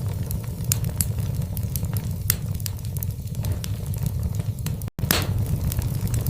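Burning logs in a fireplace, crackling with frequent sharp pops over a steady low rumble. The sound drops out for an instant about five seconds in, and a louder crackle follows.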